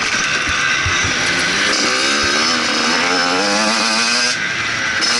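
Motocross motorcycle engine running hard, its pitch climbing in wavering steps from about two seconds in as it revs up, then falling away about four seconds in as the throttle eases.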